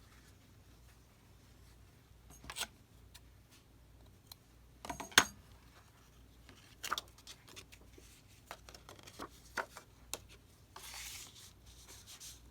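Paper and craft pieces being handled on a table: scattered light taps and clicks, a sharper knock about five seconds in, and a short rustle of paper near the end.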